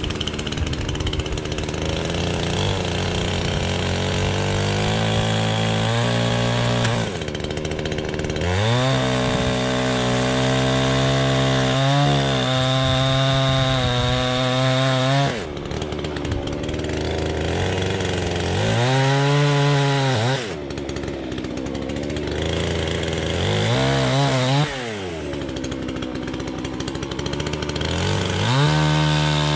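An engine running hard, its pitch rising sharply and then falling back several times, with sudden drops in level where the throttle comes off.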